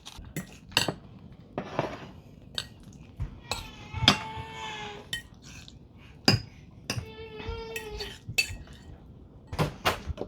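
A metal utensil clinking and scraping against a bowl while mixing an egg mixture with mayonnaise, mustard and seasonings, in a run of sharp clicks. There are two short high-pitched sounds, about four and seven seconds in.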